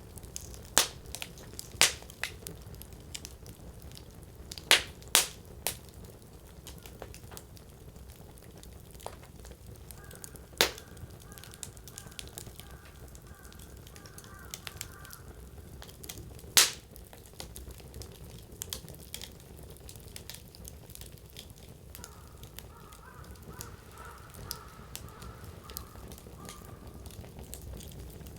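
Firewood burning in a Coleman Fire Disc campfire: a low crackle with six sharp, loud pops, two of them close together. A faint wavering high tone comes and goes twice, each time for about five seconds.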